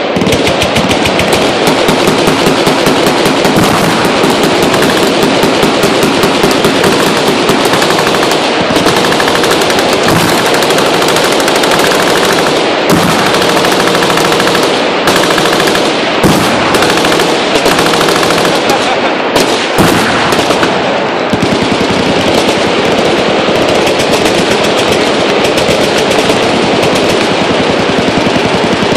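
Several machine guns firing at once in continuous, overlapping automatic bursts, a dense unbroken rattle of gunfire.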